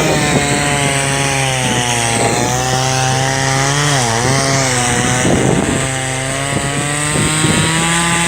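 Chainsaw running at a steady high speed, its pitch dipping briefly about four seconds in and then climbing back.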